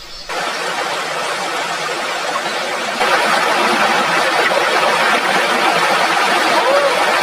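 Heavy rain falling steadily. It starts suddenly and grows louder about three seconds in.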